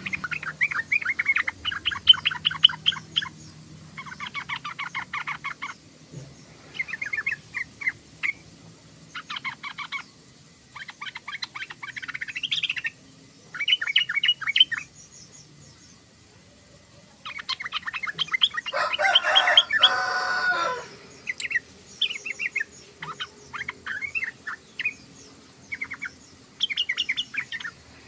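Yellow-vented bulbul (trucukan) singing: short bursts of rapid, bubbly chattering notes repeated with brief pauses, with a louder, fuller burst about two-thirds of the way through.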